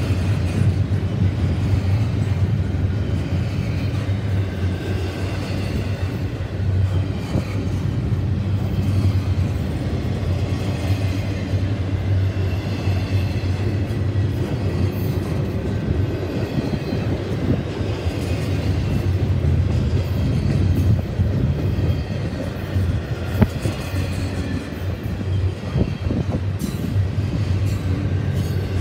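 Double-stack intermodal freight train's loaded well cars rolling past: a steady low rumble of steel wheels on the rails, with scattered clanks and clicks.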